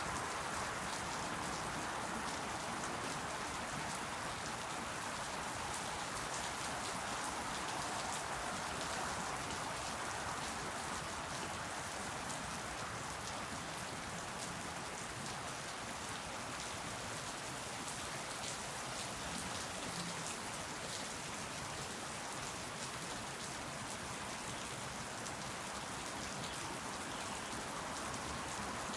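Steady rain falling: a continuous even hiss of rainfall with faint ticks of individual drops hitting surfaces.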